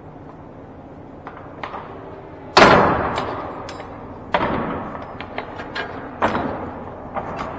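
A semi-trailer's metal door being slammed three times, loud bangs about two seconds apart that each ring out, with lighter metal clicks and knocks of the latch hardware in between. The door won't close.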